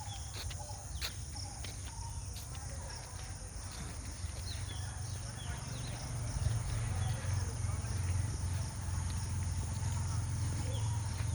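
Outdoor nature ambience: a steady high buzz of insects with scattered short bird chirps, over a low rumble that grows louder about halfway through.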